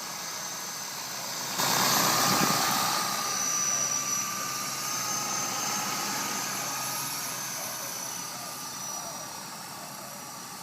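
Electric motor and rotors of a Walkera EC135 radio-controlled model helicopter in flight: a steady high motor whine with rotor noise. About one and a half seconds in, a sudden louder rush of air noise comes in, then fades over the next few seconds.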